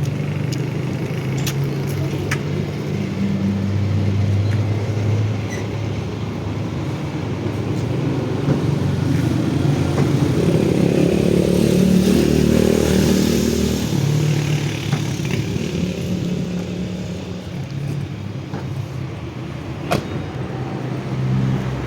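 Motor vehicle engines running in street traffic, with steady low engine tones that swell louder around the middle, and a sharp click near the end.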